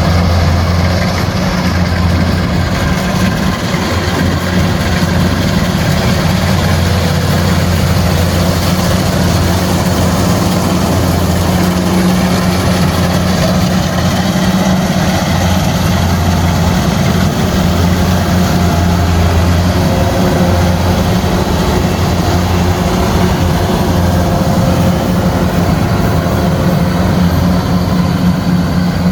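Kubota rice combine harvester running steadily, a heavy, even engine drone.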